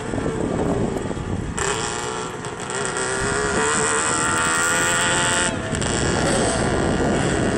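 Car engines running, one engine's note rising and falling as it is revved from about a second and a half to five and a half seconds in.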